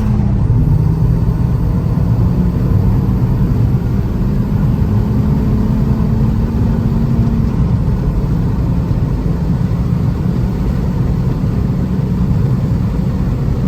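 Turbocharged Vauxhall Astra GSi accelerating hard under boost, its engine and road rumble heard from inside the cabin. The engine is pulling cleanly through the run to about 60 mph.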